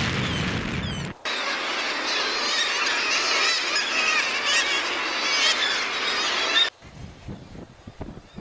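Seabird colony calling, with many bird calls overlapping into a dense chorus. A low wind rumble comes before it, and the chorus cuts off abruptly near the end.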